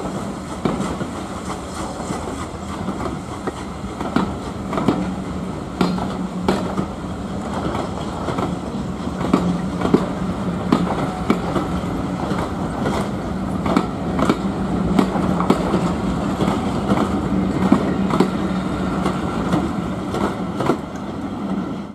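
Railway train rolling past, its wheels clicking irregularly over the rail joints, with a steady low hum underneath.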